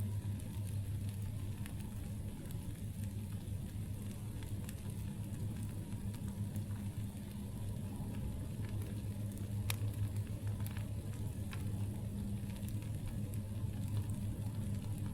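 Campfire burning with scattered crackles and pops, one sharper pop about ten seconds in, over a steady low drone.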